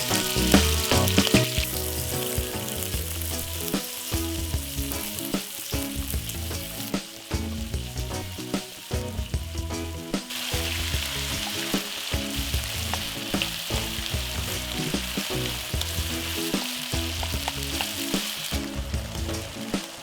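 Food sizzling in a frying pan, the sizzle growing stronger about ten seconds in, over background music.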